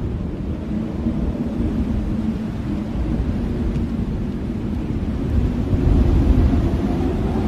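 Strong blizzard wind blowing, a deep rushing noise that swells louder in gusts about five to six seconds in.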